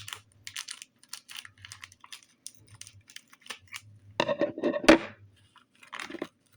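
Tiny plastic toys and their packaging handled close to the microphone: a run of light clicks and rustles, with a louder clatter and one sharp click about two-thirds of the way in.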